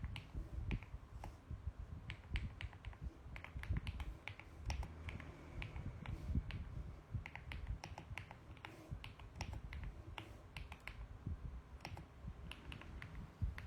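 Typing on a mechanical keyboard: quick, irregular runs of key clicks with short pauses between them, over a low dull thud of keys bottoming out.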